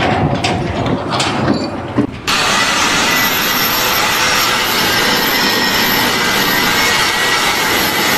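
A few sharp knocks, then a loud, steady machine noise with a faint whine in it starts abruptly about two seconds in.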